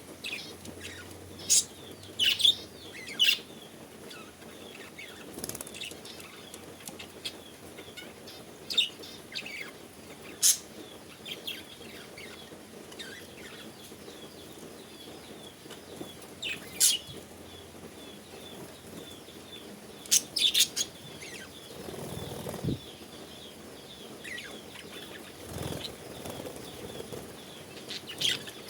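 A flock of feeding birds: scattered sharp calls and wing flaps stand out over a steady background of high chirping.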